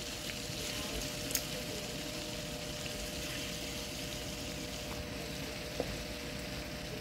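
Crushed peppers and ground crayfish frying in palm oil in a pan, a steady soft sizzle as a wooden spoon stirs through it, with a faint steady hum underneath.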